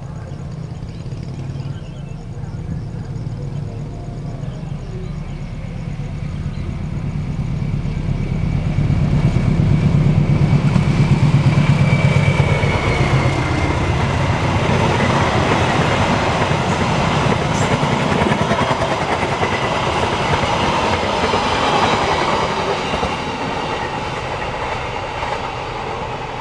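Diesel-hauled passenger train approaching and passing at speed. The locomotive's low rumble builds to its loudest about ten to twelve seconds in, then a long rake of carriages goes by with steady wheel-on-rail noise that eases off near the end.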